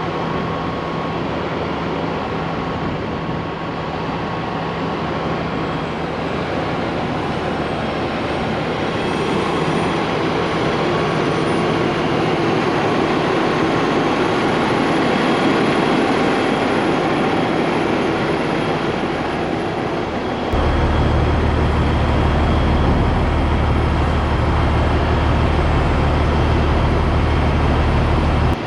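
Heavy diesel machinery running steadily. About two-thirds of the way through, a deep low hum sets in suddenly and holds, then stops abruptly at the end.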